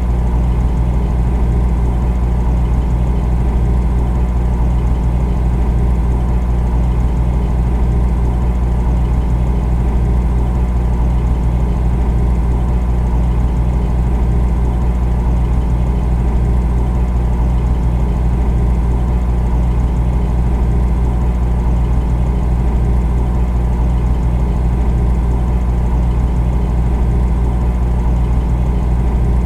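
Refrigerator's compressor running: a loud, steady low hum with a faint even rattle, unchanging throughout.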